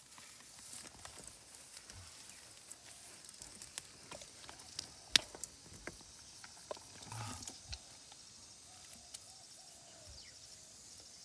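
Faint scattered clicks and rustling of hands working in wet mud while feeling into holes for eels, with one sharper click about five seconds in, over a faint steady high hiss.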